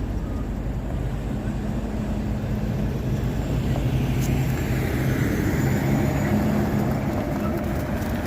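A motor vehicle's engine running steadily with a low hum, while road and wind noise swell about three seconds in.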